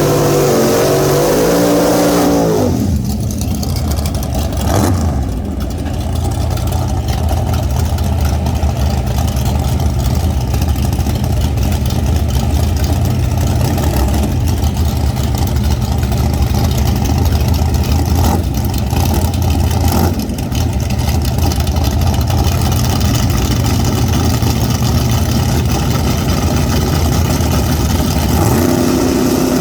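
Car engine revving over the first couple of seconds, then running with a steady low rumble, picking up to a higher note near the end.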